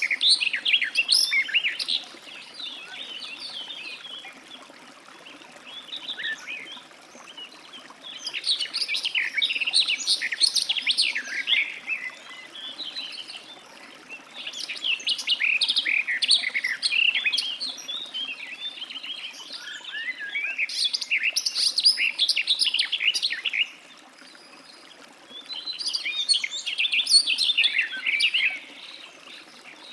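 Garden warbler singing: a run of quick, even warbling phrases, each three to four seconds long, broken by pauses of two to three seconds.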